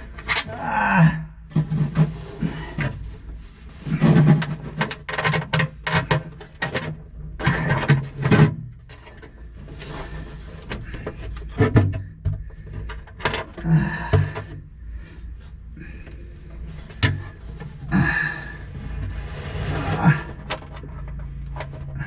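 Small metal parts and tools clicking and knocking in irregular bursts as a fuel shutoff valve and its bolts are worked into place by hand.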